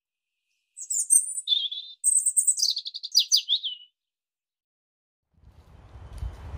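A songbird singing two short phrases of quick high notes, the second running down in pitch. After a pause, a low wind rumble builds near the end.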